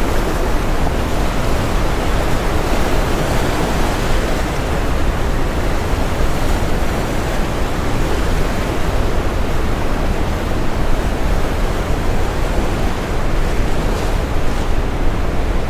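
Steady brown noise blended with ocean waves breaking on a shore, a dense, even rush heaviest in the low end.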